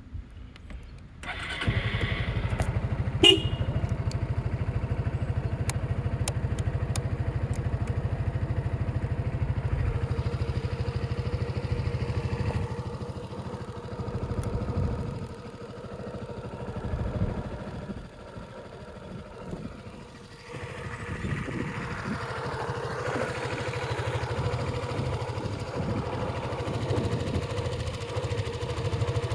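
Yamaha Majesty 250 scooter's single-cylinder four-stroke engine started on its electric starter, catching about a second and a half in with a brief sharp sound just after, then running steadily. It dips and swells with two short rises in the middle and runs louder again from about two-thirds of the way through.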